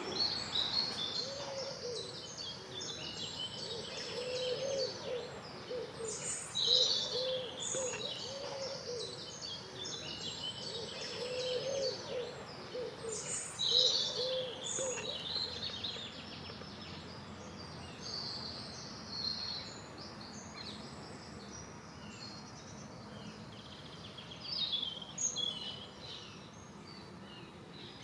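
Several songbirds singing in overlapping short, varied phrases. Between about 4 and 15 seconds in, a lower bird call repeats in short arched notes beneath them.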